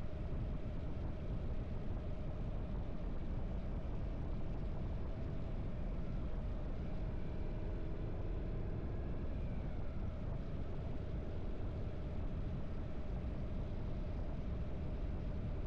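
Harley-Davidson V-twin motorcycle engine running at a steady pace while riding on the road, a continuous low rumble with a steady hum.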